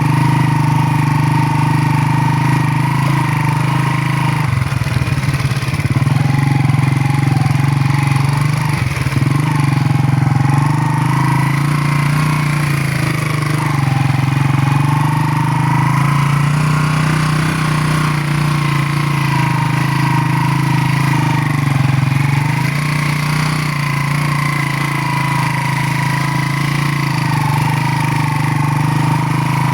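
Motorcycle engine running steadily under way, its pitch wavering gently up and down.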